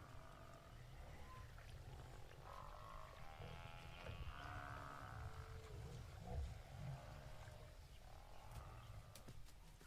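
Lion cubs calling: a series of faint, wavering, bleat-like cries over a low rumble.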